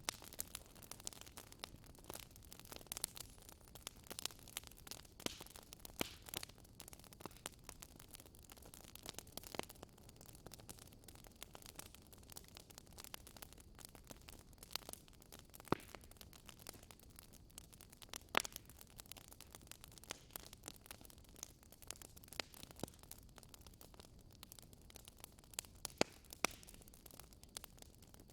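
Wood fire in a fireplace crackling: irregular sharp pops and snaps over a soft steady hiss, with a few louder snaps now and then.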